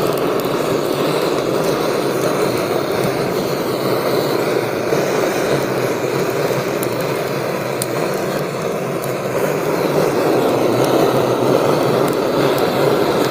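Firewood burning with a steady roaring rush of flame, broken by a few sharp crackling pops.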